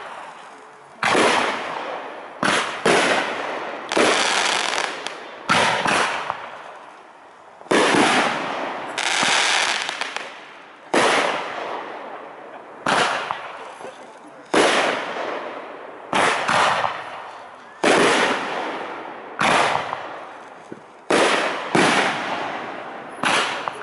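Aerial fireworks shells bursting one after another, a sharp bang every one to two seconds, each dying away in a long fading rumble before the next.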